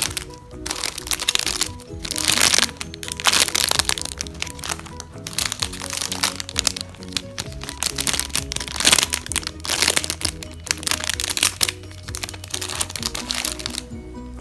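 Plastic crinkling and crackling in bursts as squishy toys are squeezed and handled, over background music with a simple stepping melody.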